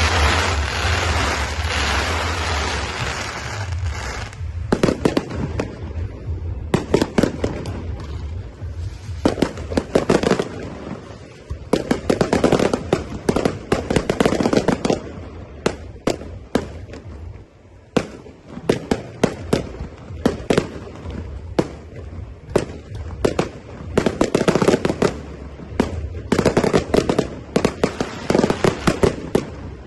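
Fireworks display: volleys of sharp bangs and crackling from bursting shells, coming in dense clusters with short lulls between them.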